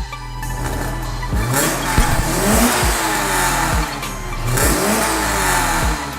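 Subaru BRZ's flat-four engine and exhaust revving, the pitch climbing and falling back twice.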